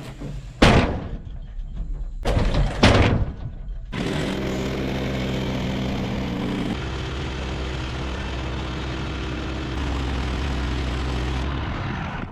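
A few heavy wooden thuds and knocks. About four seconds in, an engine starts running at a steady speed and keeps going.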